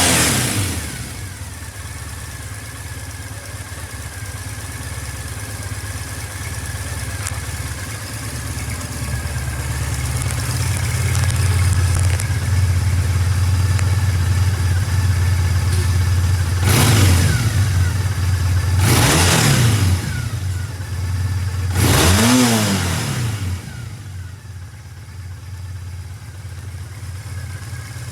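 Triumph Bonneville parallel-twin motorcycle engine idling, with the throttle blipped: one rev at the very start, then a long steady idle, then three quick revs whose pitch rises and falls, before it settles to a quieter idle near the end.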